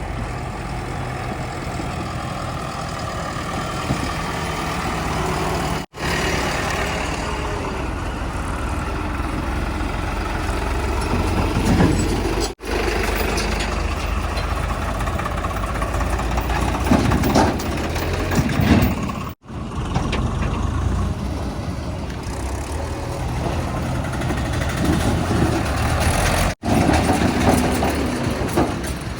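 Heavy diesel machinery running, the engine note swelling up and falling back several times as it revs under load. The sound cuts out abruptly for an instant four times.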